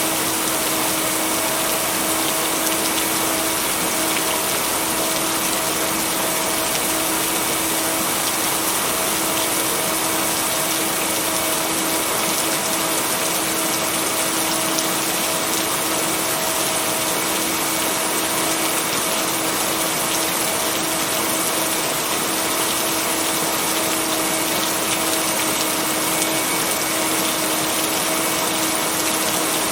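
Steady rain: an even, unbroken hiss with no thunder, and a steady low tone underneath, a binaural-beat tone blended into the recording.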